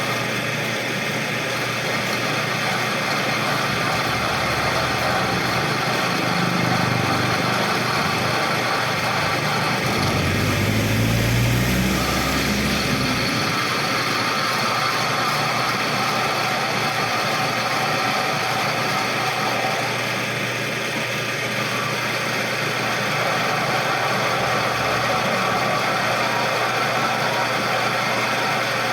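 A machine running steadily with constant mechanical noise; a low hum rises in pitch about ten seconds in and drops away a few seconds later.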